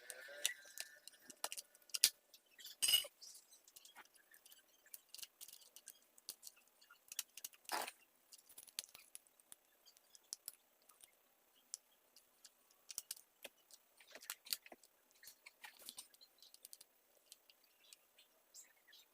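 Irregular small clicks, clinks and light scrapes of hard parts being handled while a mini chainsaw is cleaned, with a sharper knock about three seconds in and a short rasp near eight seconds.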